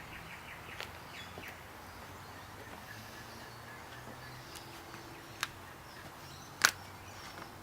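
A few clicks and knocks from handling a new plastic oil bottle and its cap, including a run of faint ticks early on and one sharp click about a second before the end, over a low steady background.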